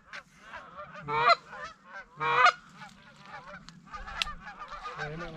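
Goose honking: two loud honks about one and two and a half seconds in, over a steady chorus of fainter honks.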